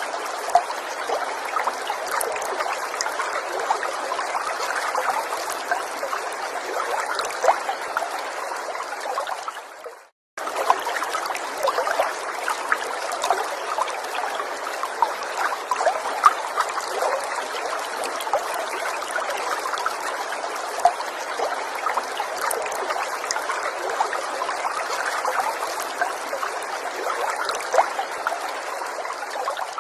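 Small forest stream trickling and burbling over stones, a steady flow dotted with little splashes. Just after ten seconds in, the sound fades out to silence for a moment and then comes back.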